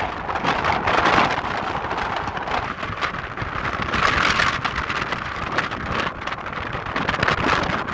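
Gusty wind buffeting the microphone: a loud rushing noise that swells and falls, with crackling.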